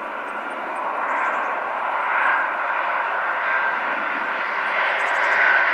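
Airplane engine running steadily, a broad rushing noise with a faint whine in it, growing slowly louder.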